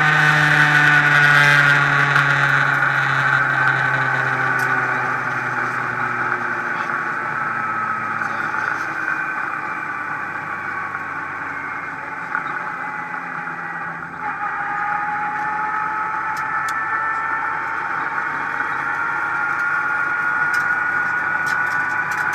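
Renault Clio Ragnotti rally car's engine heard from inside the cabin. Its note falls slowly over the first several seconds as the revs drop, then runs steadily at lower revs and rises a little in the second half.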